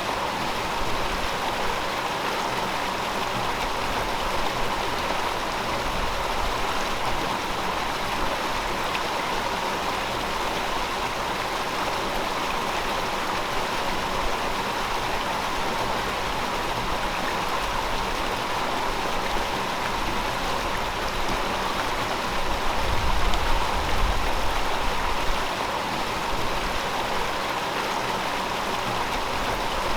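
A river flowing over rocks: a steady rush and babble of running water, swelling a little in its low rumble about three-quarters of the way through.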